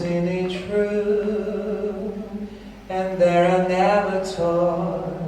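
A voice singing slow, long-held notes in a chant-like line. It softens about two seconds in and comes back louder at about three seconds.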